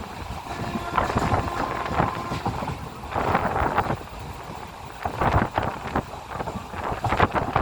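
A fast-moving train running, with wind rushing and buffeting on the microphone over irregular rattling and clatter.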